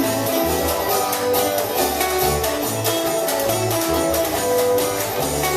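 Live band playing an instrumental break: strummed guitar over a walking bass line with a steady rhythm.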